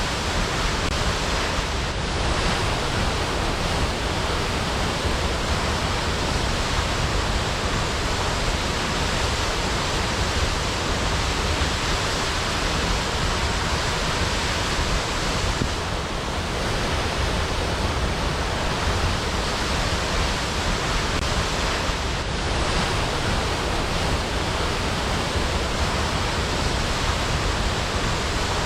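Waterfall: a steady rush of falling water, unbroken and even.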